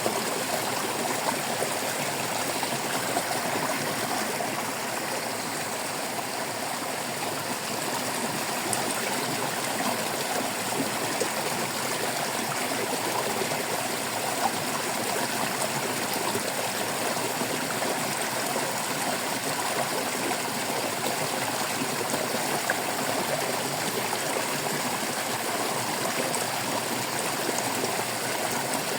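Shallow stream water babbling and trickling over stones, a steady splashing.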